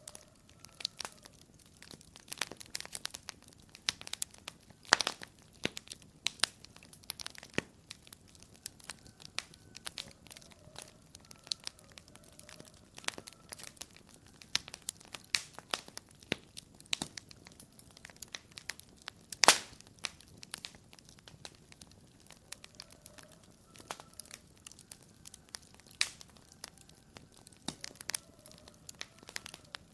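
Wood fire crackling in a fireplace: a steady patter of irregular sharp pops and snaps over a low hiss, with a few louder pops, the loudest about two-thirds of the way through.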